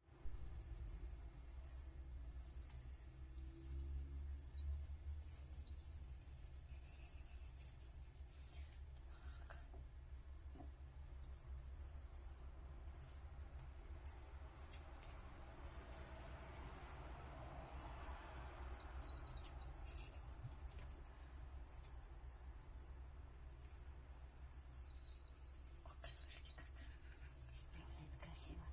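Crickets chirping: a high trill repeating about once a second, over a steady low hum.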